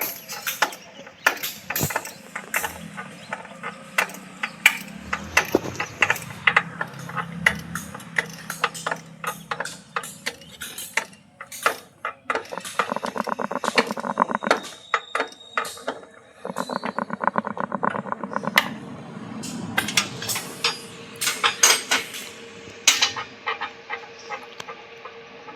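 Metal tools clinking and knocking on tractor parts during a repair, with two stretches of rapid clicking partway through.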